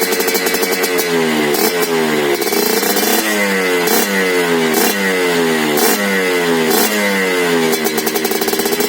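Suzuki Satria 120 LSCM two-stroke motorcycle with a BRAT racing exhaust, idling, then revved in a run of quick throttle blips, each rising and dropping back, before settling to idle near the end.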